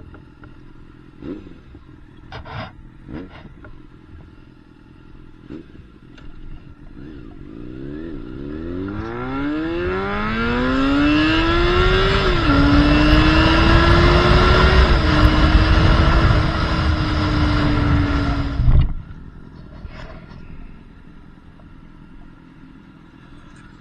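Yamaha FZ6's inline-four engine through an SC Project aftermarket exhaust, running quietly at first, then pulling hard with the pitch climbing steeply and dropping sharply twice at upshifts. It holds high revs for a few seconds, then cuts off suddenly with a sharp pop as the throttle closes, falling back to a low run.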